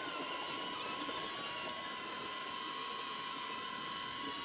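DJI Neo 2 drone's propellers hovering: a steady whine with a slight waver.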